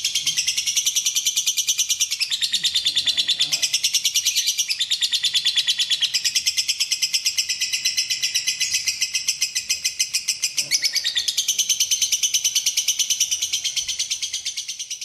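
Lovebird chattering song: a fast, unbroken run of high, shrill chirps, several a second, shifting pitch every couple of seconds.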